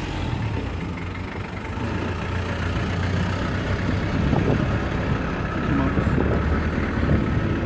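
Steady low rumble like a vehicle engine running nearby, with faint voices in the background.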